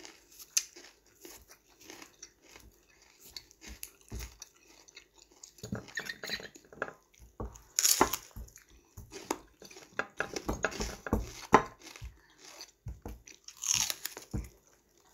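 A person biting and chewing raw bitter gourd (ampalaya), with crisp, crunchy snaps close to the microphone. The chewing is faint at first, grows denser after about five seconds, and the loudest bites come about eight seconds in and near the end.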